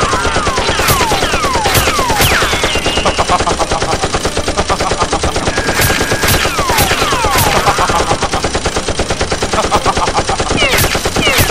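Rapid automatic gunfire sound effects: a continuous stream of fast shots, with short falling whistles like ricochets or passing rounds cutting in now and then.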